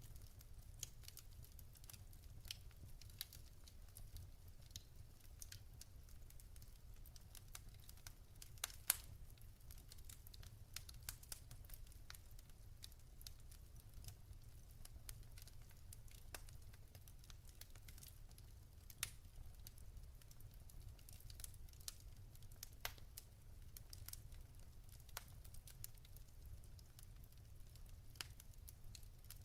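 Wood fire burning in a fireplace: faint, irregular crackles and pops from the burning logs over a low, steady rumble, with one slightly louder pop about nine seconds in.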